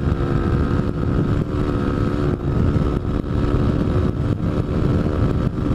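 Honda CRF dirt bike's single-cylinder four-stroke engine running at a steady pitch while under way, over a heavy low rumble, with short dips in level every second or so.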